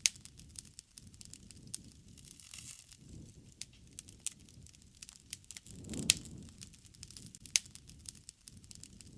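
Wood fire crackling, with irregular sharp pops and a low rushing of flame that swells about six seconds in.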